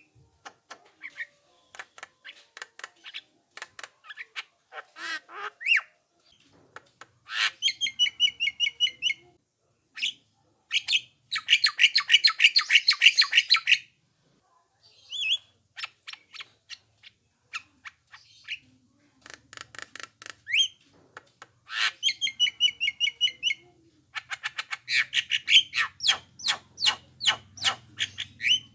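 Javan myna calling: trains of rapid clicking chatter broken by harsh rattling bursts lasting a second or two, and a few short rising whistles.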